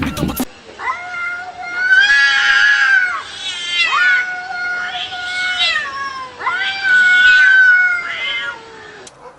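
A cat yowling: four long drawn-out calls in a row, each holding a steady pitch before sliding away.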